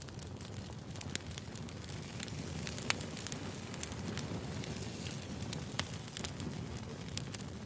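Burning firewood crackling, with frequent sharp pops and snaps over a low, steady rumble of the flames.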